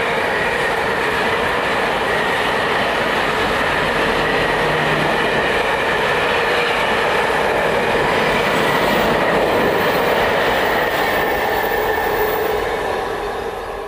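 A train passing close by: the loud, steady rush of its wheels running on the rails, with steady high tones over the rumble, dying away near the end.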